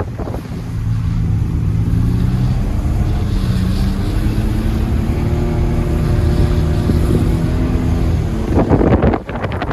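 Ford Ranger pickup engine held at revs while drifting in snow, its pitch climbing slowly and steadily. About nine seconds in, a short loud burst of rushing noise.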